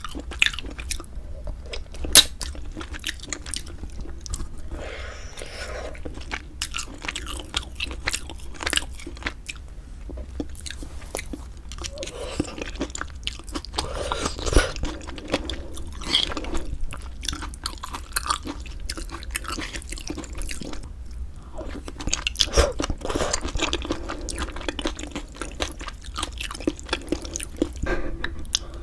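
Close-miked eating of pork bone soup with glass noodles: continuous wet chewing with many sharp crunchy clicks and bites, louder in short clusters.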